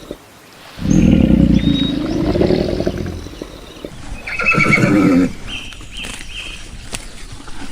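Farm animal calls: a long, loud, low call about a second in, then a shorter wavering call with a bright high edge, followed by three short high chirps.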